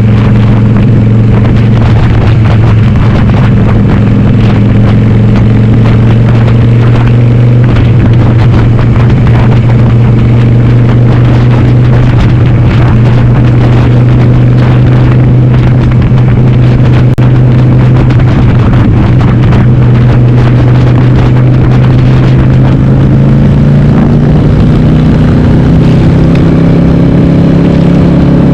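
Harley-Davidson Sportster 883R's V-twin, bored out to 1200, running loud and steady under way through a Cobra Speedster 909 exhaust with the dB killer baffles removed. The engine note rises near the end.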